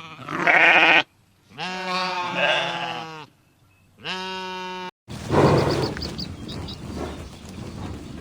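Three bleats from livestock, each a wavering, pitched cry. The loudest one ends about a second in, and there are silent gaps between them. About five seconds in the sound cuts abruptly to a rougher, noisier animal sound with faint high chirps.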